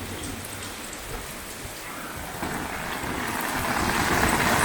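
Heavy wind-driven rain, a steady hiss that grows louder over the last two seconds.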